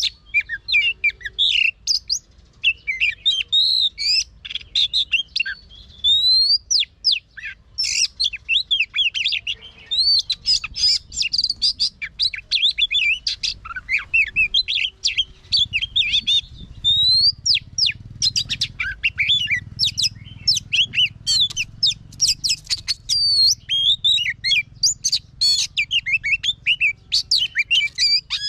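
Oriental magpie-robin singing a continuous, varied song of rapid whistles, rising and falling sweeps and quick chattering notes.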